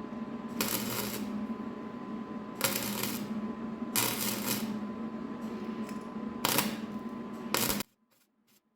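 A steady hum with five short bursts of clattering noise over it, each about half a second long. All of it cuts off abruptly near the end.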